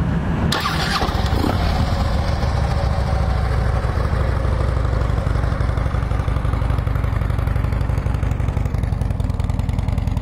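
2011 Harley-Davidson Road King Classic's V-twin engine on factory exhaust catching about half a second in, then idling steadily.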